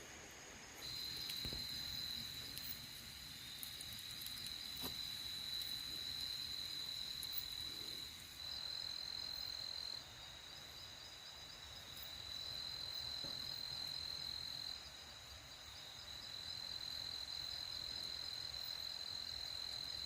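Crickets trilling at night: a steady high-pitched trill that starts about a second in and runs on with a few short breaks, with a few faint clicks.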